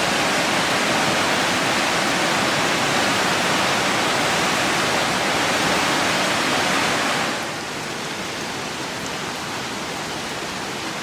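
Gitgit Waterfall's falling water rushing steadily. The rush drops to a lower level about seven and a half seconds in and stays even after that.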